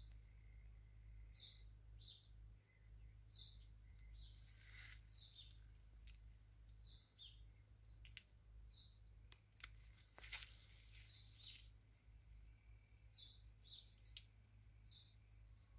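Faint, short, high bird chirps repeating about every second or two, with a few sharp clicks and a low steady hum underneath.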